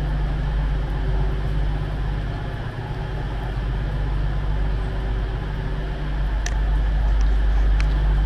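Diesel train standing at the platform with its engines idling: a steady low hum with a few held low tones. Two short clicks sound a little after halfway.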